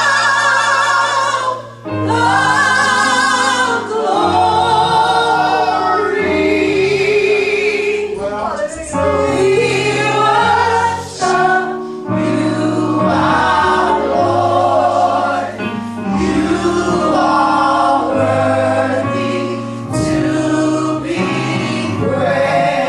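Gospel choir singing a praise song with vibrato, over sustained bass and keyboard chords that change every couple of seconds.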